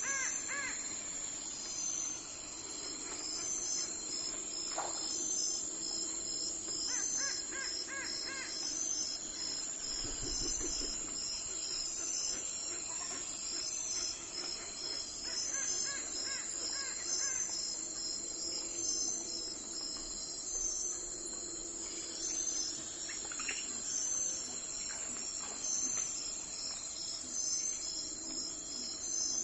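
Early-morning outdoor ambience: insects chirping steadily in a fast, even pulse, with a bird calling in short series of repeated calls several times.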